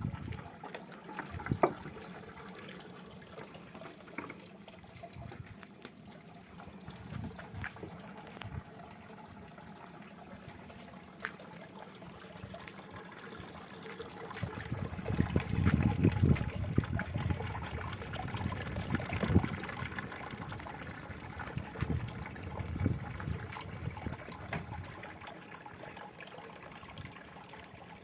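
Liquid sloshing and trickling, with scattered knocks and a louder stretch of low thuds about halfway through.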